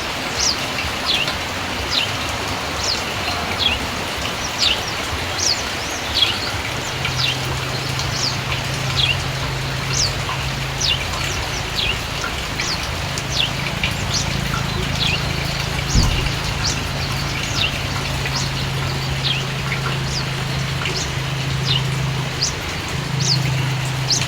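Steady rain falling, with many short, high chirps from small birds about once or twice a second. A low steady hum comes in after several seconds.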